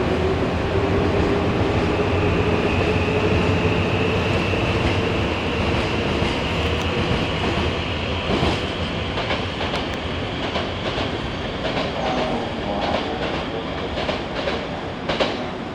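Nankai electric train pulling out of the station: its traction motors whine, rising slowly in pitch as it gathers speed, then the wheels click over the rail joints in a string of sharp clacks as it draws away, the sound slowly fading.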